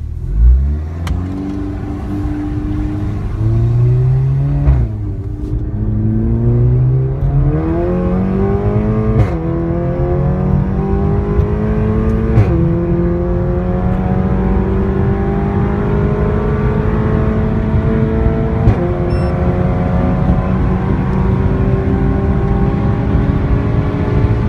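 Seat Leon Cupra with a loud exhaust accelerating hard through the gears. The engine note climbs in each gear, breaking and dropping at four upshifts about 5, 9, 12.5 and 19 seconds in; the last gear rises only slowly.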